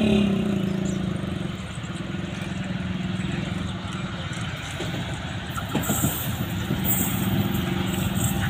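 Train at the station: its diesel locomotive's engine running with a steady low rumble. Short high-pitched bursts come about once a second in the last few seconds.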